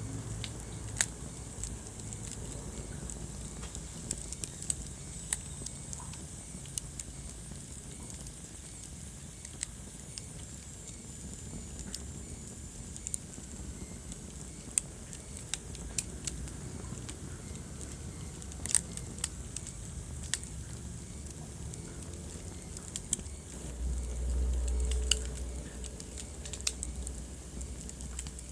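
Wood fire crackling in a fireplace: irregular sharp pops and snaps over a low steady rumble, which swells for a couple of seconds near the end.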